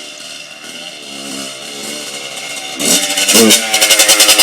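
Yamaha YZ85 dirt bike's two-stroke single-cylinder engine running at low revs, then revved up sharply about three seconds in. At high revs the sound breaks into a rapid, loud pulsing of about eight beats a second.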